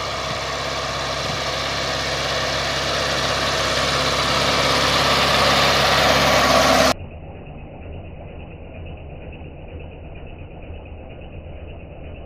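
Case IH 856 XL tractor's six-cylinder diesel engine working hard under load, growing gradually louder. About seven seconds in, the sound cuts abruptly to a quieter, muffled engine hum.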